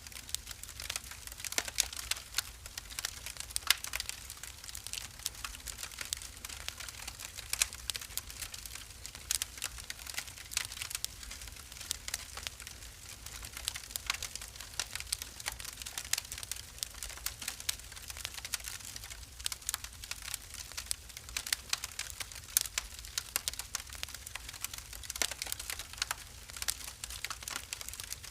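Wood fire burning in a fireplace, crackling with many irregular sharp pops and snaps over a faint low rumble.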